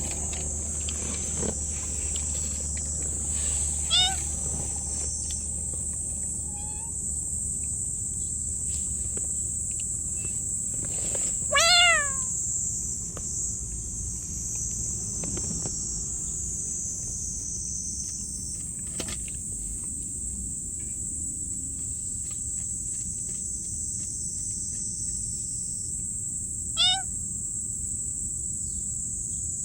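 A cat meowing in a few short calls, a few seconds in, about twelve seconds in (the loudest) and near the end, over steady chirping of crickets.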